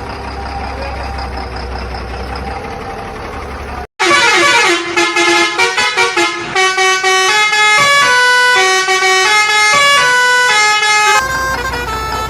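A steady engine-like hum cuts out about four seconds in. It gives way to a tune of stepped horn-like tones that ends about eleven seconds in, when the hum returns.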